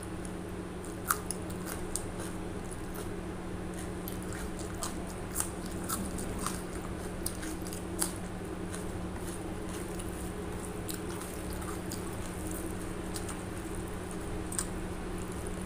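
Close-up chewing and wet mouth sounds of someone eating chicken curry, rice and raw onion by hand, with scattered short clicks and smacks. A steady low hum runs underneath.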